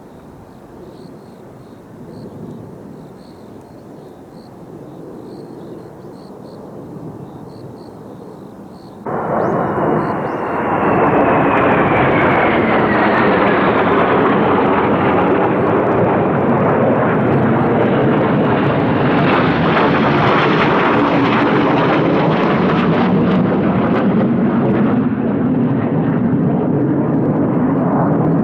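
Kawasaki T-4 jet trainers flying past. Loud jet noise cuts in suddenly about nine seconds in, with a whine that falls in pitch as the jets pass, and stays loud to the end.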